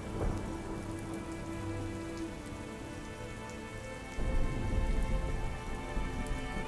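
Steady soft rain over a sustained ambient music pad of held chords. About four seconds in, a low rumble swells in and lasts to near the end.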